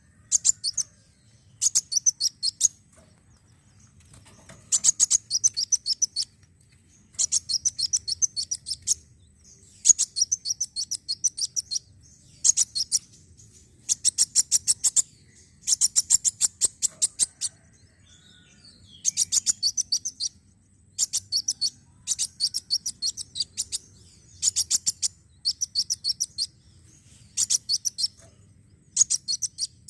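Kolibri wulung sunbird singing: repeated phrases of very rapid, sharp, high-pitched notes, each phrase lasting about one to two seconds, with short pauses between them.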